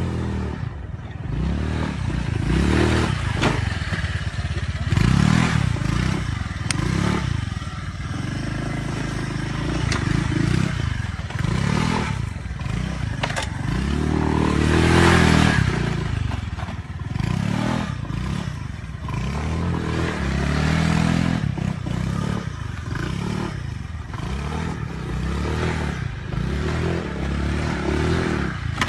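Motorbike engine revved hard and let fall again over and over, roughly every second and a half, with the longest and loudest rev about halfway through. Mechanical clattering and rattling run under the revs.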